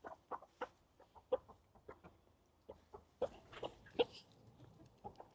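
Domestic hens clucking in short, irregular calls while they feed.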